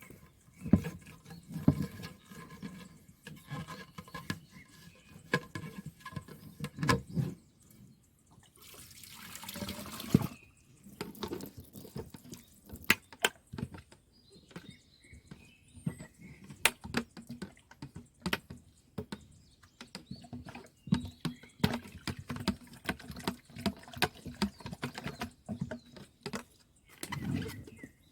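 Water splashing and dripping while a water tank filter is rinsed and handled, with many scattered knocks and clicks of the parts being moved; a brief rush of water about nine seconds in.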